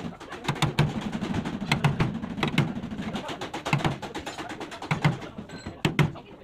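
Irregular sharp knocks and taps, often in quick pairs, over a low steady rumble.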